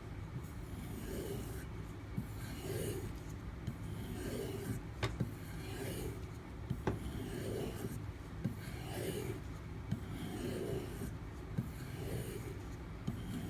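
D2 steel knife blade drawn along a leather strop loaded with white compound, in steady rubbing strokes a little more than one a second, with a sharp tick now and then.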